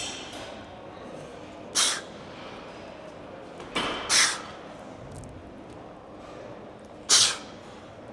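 Forceful, hissing exhalations from a weightlifter pushing through reps: three sharp breaths two to three seconds apart, the middle one doubled.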